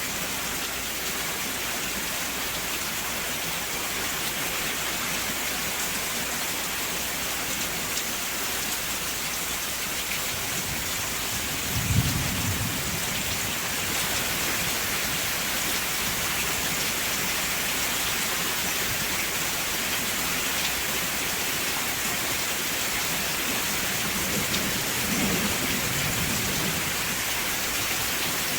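Steady rain falling, with a short low rumble of thunder about twelve seconds in and a fainter rumble near the end.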